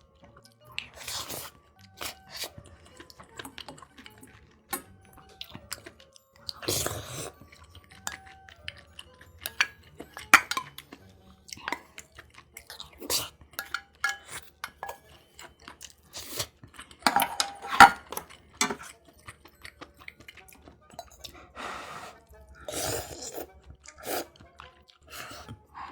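Close-miked eating: chewing and crunching of food, with scattered sharp clicks and clinks of cutlery and dishes.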